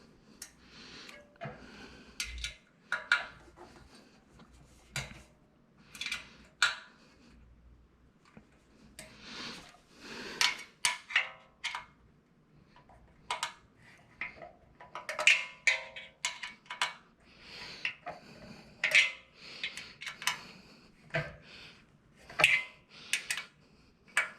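Irregular clinks, clanks and short rattles of metal stand parts being handled and fitted together during assembly of a cutting plotter stand.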